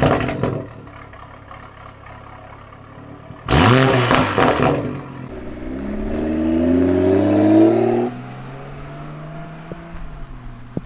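BMW G20 M340i's turbocharged B58 straight-six, with free-flow downpipes and a valved catback exhaust, revving at idle. There is a sharp blip at the start and another about three and a half seconds in, then a slower rev climbing for about three seconds that drops off suddenly back to idle.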